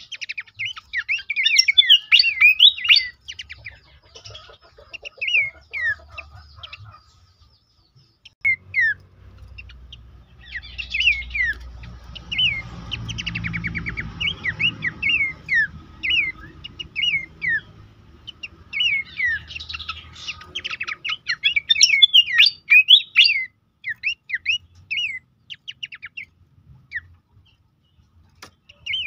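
Horsfield's babbler (pelanduk semak) calling in bursts of quick, clear, downward-slurred whistles. A low rumble runs underneath for several seconds in the middle.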